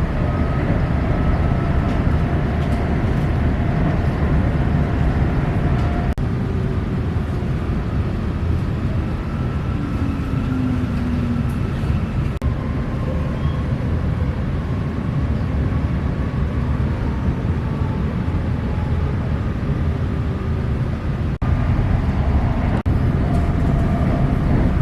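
Steady rumble of a passenger train running, heard from inside the carriage, with a faint motor whine that slides slowly up and down in pitch.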